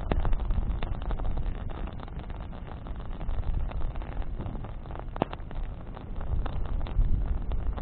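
Wood campfire of burning branches crackling and popping irregularly over a steady low rumble, with one sharper pop about five seconds in.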